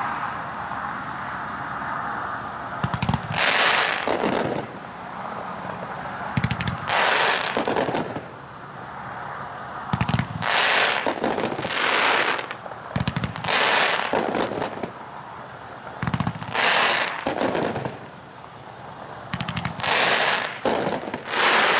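A 500-gram consumer fireworks cake (America the Brave, 30 shots) firing. Low launch thumps come about every three seconds, each followed by a noisy aerial burst lasting about a second, with a steady hiss in between.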